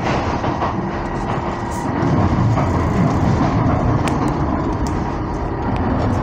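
Docklands Light Railway train running along the track, heard from inside the car: a steady rumble of wheels on rail with a faint steady whine and a few sharp clicks, the clearest about four seconds in.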